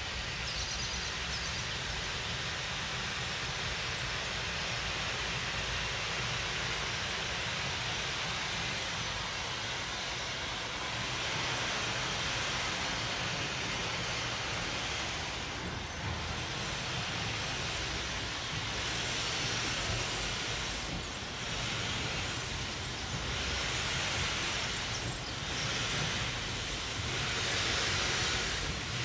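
A steam locomotive with a steady hiss of steam and a low rumble. In the last third, separate exhaust beats come through about once a second, getting a little louder near the end.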